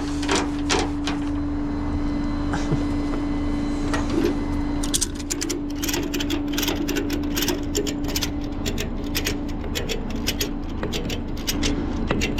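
Tow truck running with a steady whine and low hum, joined about five seconds in by a run of quick, uneven clicks and rattles.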